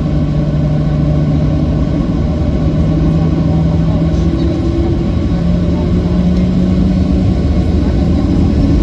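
Loud, steady engine rumble with a low hum that rises slowly in pitch.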